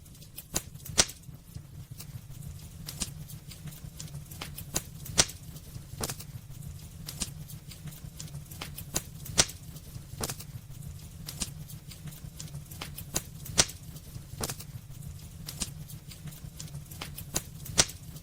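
Wood fire burning in a fireplace: constant irregular crackling and snapping, with a louder pop about every four seconds, over a steady low rumble of the flames.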